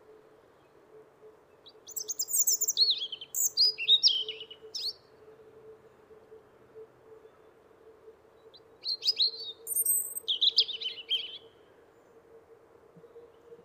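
A small songbird singing two high, quick, tinkling song phrases with a pause between them, over a faint steady hum.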